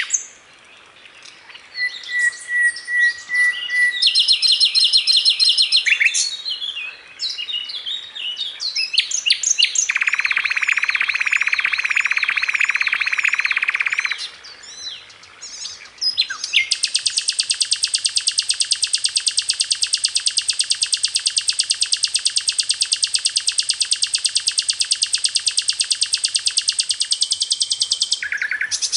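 Sikatan londo (flycatcher) singing energetically on a tutor recording: a varied run of quick chirps, whistled notes and short trills, a loud buzzy trill in the middle, then one long unbroken rapid trill through most of the second half.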